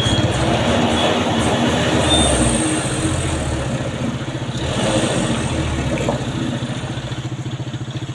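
Large diesel truck engine running with a steady low throbbing pulse, swelling louder for the first few seconds and again briefly around five seconds in.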